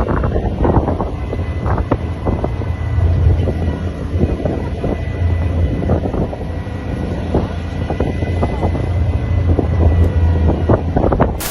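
Wind buffeting the microphone over a vehicle's low, steady rumble, with irregular gusts. A sharp click at the very end.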